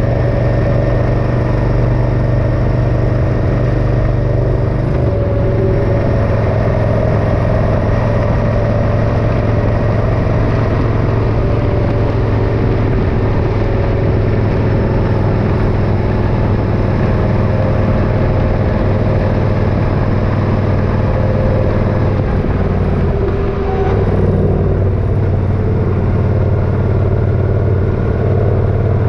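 Motorcycle engine running steadily under way, with road and wind noise. The engine note steps down about five seconds in and shifts again around twenty-three seconds in.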